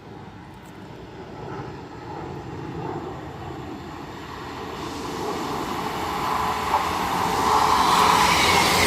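Class 158 diesel multiple unit approaching, its engine and wheel noise growing steadily louder until it is close at the end.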